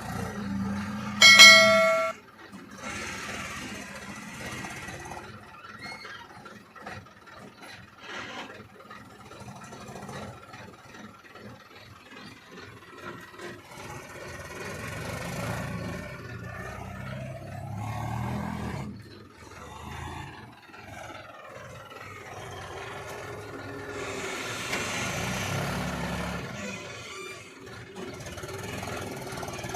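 Diesel engines of heavy machinery running at varying load, revving up and down around the middle, with a short, loud horn blast about a second in.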